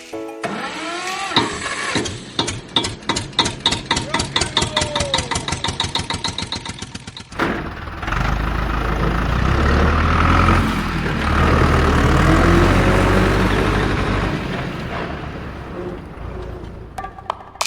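Engine starting: a run of rapid pulses that come faster and faster for about seven seconds, then a steady running drone that swells and fades away near the end.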